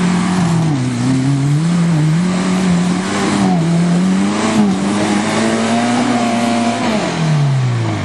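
Suzuki Samurai's four-cylinder engine revving up and down under load as it crawls up a rocky trail, its pitch rising and falling every second or so, then dropping away about seven seconds in.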